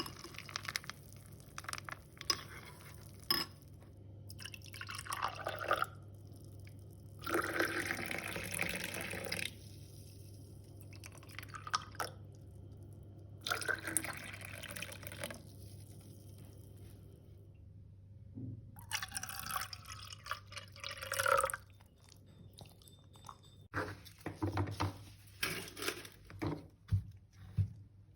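Water running in four short spells of a second or two each, with small clicks and knocks between them over a low steady hum.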